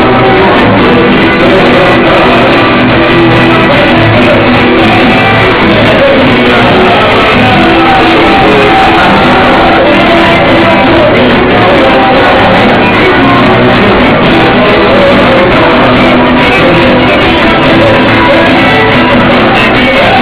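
Loud music: a group of young voices singing, close to shouting, with some instrumental accompaniment.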